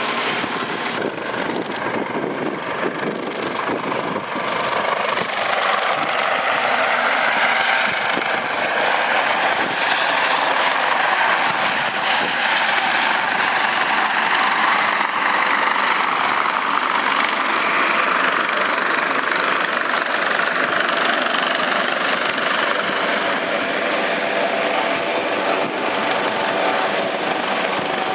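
U.S. Coast Guard MH-65 Dolphin helicopter running on the ramp, its twin-turbine whine and rotor noise swelling a few seconds in and then holding steady and loud.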